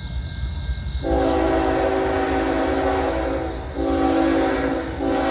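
Norfolk Southern diesel locomotive's air horn sounding a chord, starting about a second in: a long blast, a shorter one, then a third still held at the end. Under it, the low rumble of the loaded coal train.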